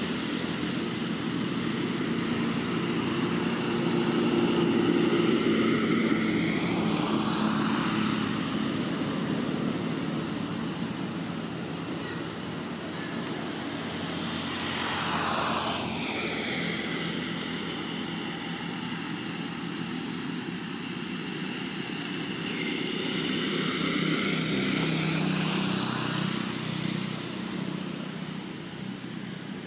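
Engine drone of something passing, swelling and fading three times, with sweeping whooshes as each one goes by.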